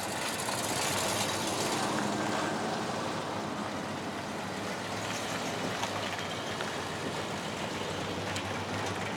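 Classic American cars driving slowly past one after another, their engines running with a steady low note under tyre and road noise.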